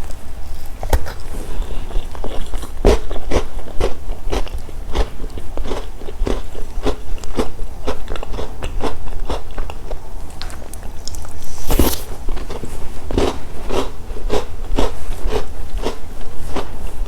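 Close-miked chewing and crunching of crunchy chocolate snacks such as wafers and cookies, a couple of crisp crunches a second with a louder one about twelve seconds in. A steady low hum runs underneath from a badly connected microphone.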